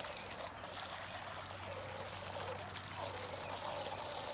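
Water splashing and trickling as a small radio-controlled jet ski drives through it, with a faint steady low hum underneath.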